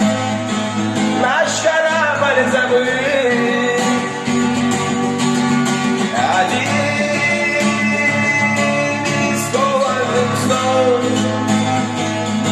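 Acoustic guitar playing a song's introduction, steady and without a break.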